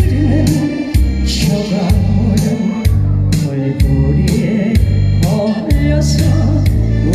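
Live singing of a Korean pumba-style song over loud backing music with a steady low beat about once a second.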